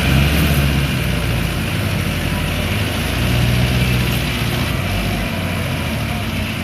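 Diesel tractor engine running, its low note shifting up and down a little as the throttle changes.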